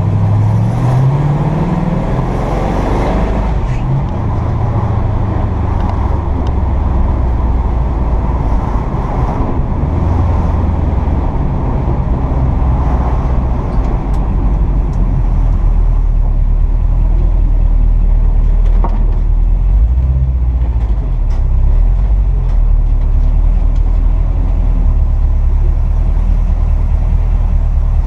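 1957 Chevrolet 3100 pickup truck being driven. The engine rises in pitch as it accelerates in the first two seconds, then runs steadily with a low rumble and road noise.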